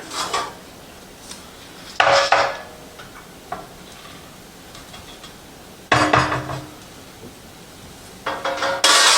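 A metal pan knocking and scraping while roasted pine nuts are tipped out of it onto a cutting board. Sharp clanks with a brief ring come about two seconds in and again about six seconds in, then a run of small knocks and a louder clatter near the end.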